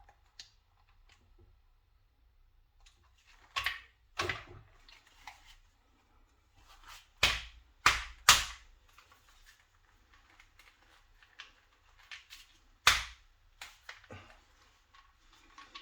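A .50-calibre CO2 revolver fires about six sharp pops on a fresh CO2 cartridge: two near the start, three in quick succession in the middle, and one more near the end. Fainter clicks and handling noises fall between the shots.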